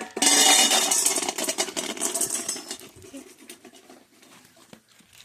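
Dry dog food poured into a bowl: a rattling rush that starts suddenly, lasts about two and a half seconds and tapers off into scattered clicks.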